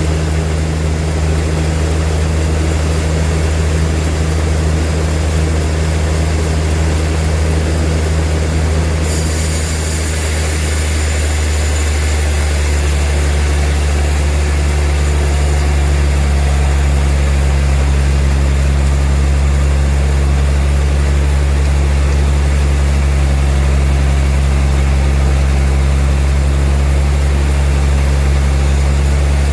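Sawmill machinery running with a loud, steady low drone. About nine seconds in a high hiss joins it, and the pitch of the drone shifts slightly a few seconds later.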